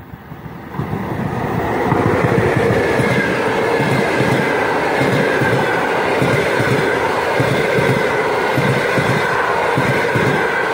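An EP1 electric locomotive and its mail and baggage cars passing close by. The sound swells over the first two seconds as the locomotive goes past, then holds steady as the cars roll by with a rhythmic clatter of wheels on the rails.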